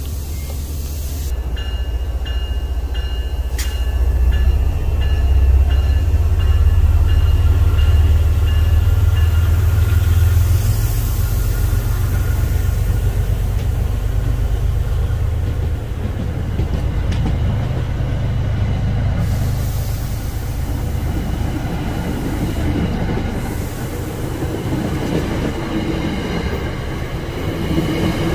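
MBTA commuter rail train passing close by: a deep rumble, heaviest in the first third, with a thin high squeal over the first part. Coaches then roll past with steady wheel rumble and clatter.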